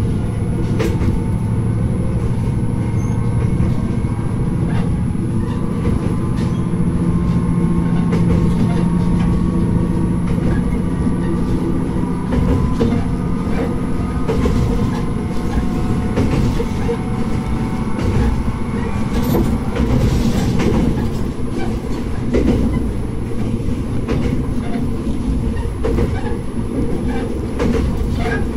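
Diesel railcar running along the line: a steady low engine drone under way, wheels clicking over rail joints, and a thin whine that slowly drifts in pitch.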